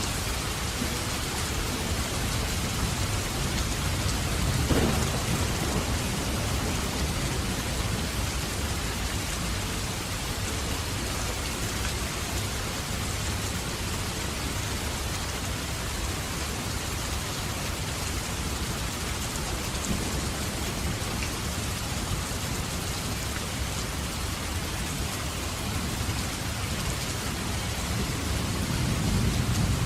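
Steady rain falling, with thunder rumbling low twice: once about five seconds in and again near the end.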